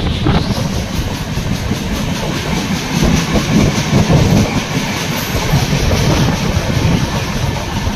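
A moving passenger train heard from an open coach door: wheels clattering over the rails under a steady loud running noise, growing louder about three seconds in.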